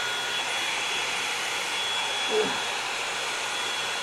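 Revlon Salon One-Step hair dryer and volumizer, a hot-air brush, running steadily: an even rush of blown air with a thin high whine from the motor.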